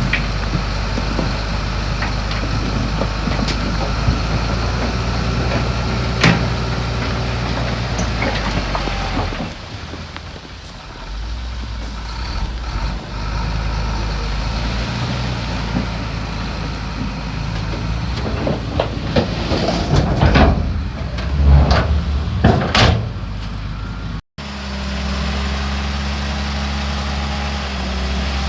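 Diesel engine of heavy earthmoving machinery running steadily, with scattered clanks and knocks. The engine dies down for a moment about ten seconds in. After a brief gap near the end, a steady engine hum goes on.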